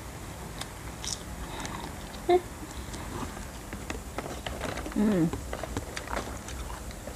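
Chewing a crisp fried seaweed snack: faint crunches and crackles with the mouth, and two short hummed 'mm' sounds, a brief one a little past two seconds and a longer one about five seconds in that falls in pitch.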